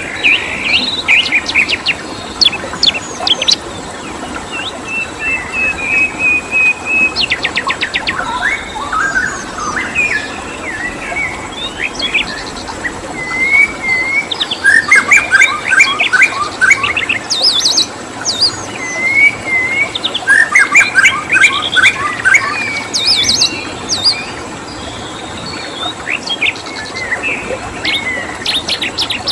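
Several songbirds singing together: quick chirps, rapid trills and short whistled phrases, busiest in the middle, over a steady background hiss with a faint high insect-like drone.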